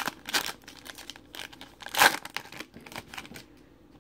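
Foil trading-card pack being torn open and crinkled by hand, a run of sharp crackling rips with the loudest about two seconds in, stopping shortly before the end.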